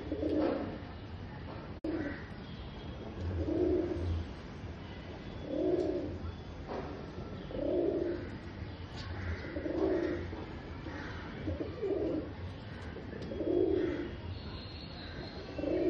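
Domestic pigeon cooing repeatedly, a low coo about every two seconds, typical of a male's courtship cooing at mating time.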